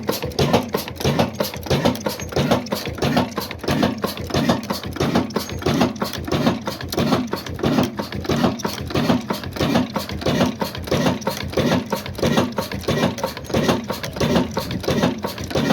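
Old black stationary diesel engine running steadily, with a regular beat of about two to three strokes a second under a fast mechanical clatter.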